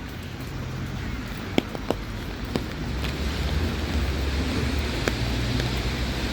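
Steady rain falling, with a low rumble underneath and a handful of sharp taps scattered through it.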